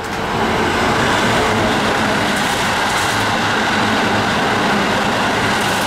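Keikyu Main Line electric train running past the platform: a loud, steady rush that builds in the first half second and then holds.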